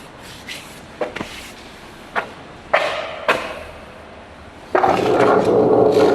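A skateboard knocking a few times, then its wheels rolling steadily over wet pavement from about three-quarters of the way through.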